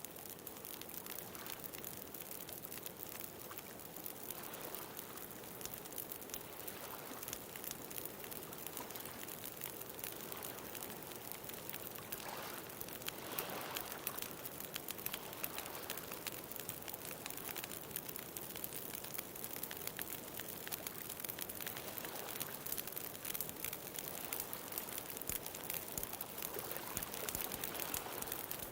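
Wood bonfire crackling with many small pops over a continuous wash of ocean waves, the surf swelling and easing every several seconds.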